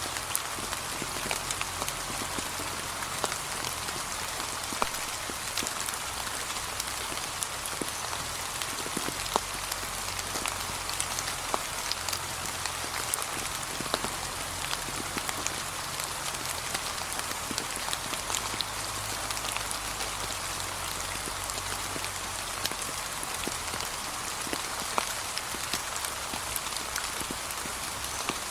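Steady, gentle rain falling on a path of fallen autumn leaves: a constant hiss with many separate drops tapping at irregular moments.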